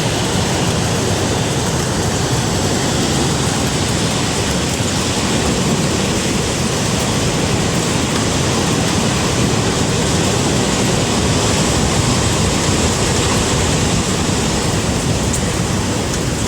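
Hurricane wind and rain: a steady, loud rush of noise that does not let up.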